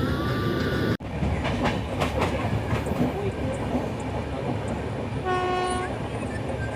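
Train running with rumbling wheel and track noise and a few clicks over the rails, with one short horn blast about five seconds in.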